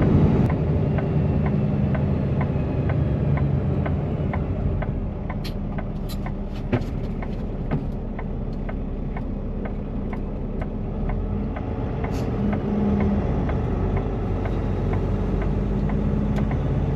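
Peterbilt truck's diesel engine idling steadily, heard from inside the cab, with a regular light ticking about two or three times a second.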